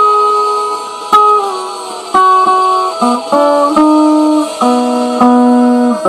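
Guitar playing a slow run of chords with no singing, each chord struck once and left to ring out before the next.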